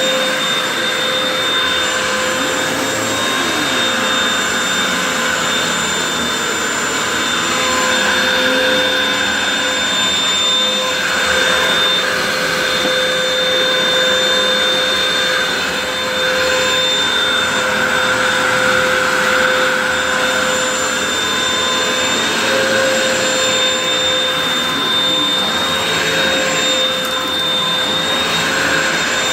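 Upright vacuum cleaner running continuously and noisily: a steady high motor whine over a rush of air, with the airflow wavering slightly now and then.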